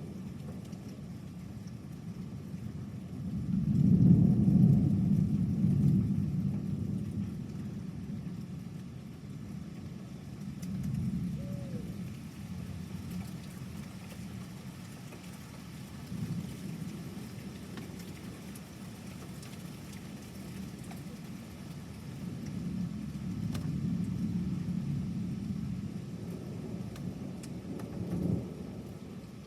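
Thunder rumbling in several low rolls, the loudest swelling about four seconds in and smaller ones following through the rest, over a steady faint hiss of rain.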